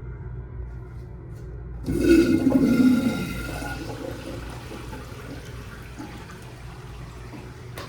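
Loud flush of an American Standard public-restroom fixture: a sudden rush of water about two seconds in, loudest for about a second, then a long fading refill noise, with a sharp click near the end.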